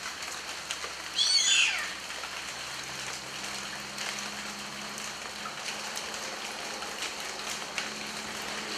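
Steady rain falling, with a single bird call about a second in that sweeps down in pitch and is louder than the rain.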